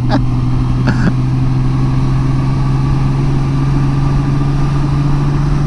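Honda Gold Wing's flat-six engine running steadily at cruise, with a steady hum that edges slightly higher in pitch toward the end, over wind and road noise.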